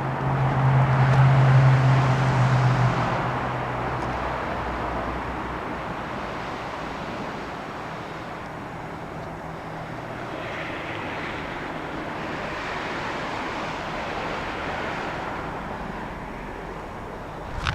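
An engine passing by: a low steady hum under a rush of noise, loudest about two seconds in, then fading away to a steady background. A sharp click near the end.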